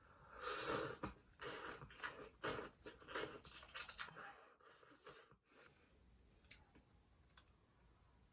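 Close-miked eating noises from a person's mouth: a run of about five loud, airy bursts in the first four seconds or so, then only faint background.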